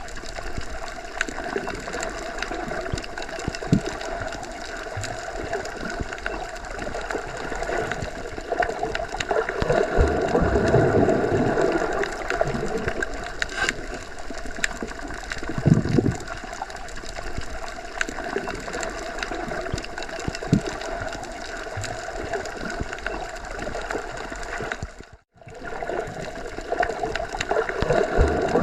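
Underwater ambience heard through a submerged microphone: a steady, muffled water rush with low gurgling swells and faint clicks. It cuts out briefly near the end.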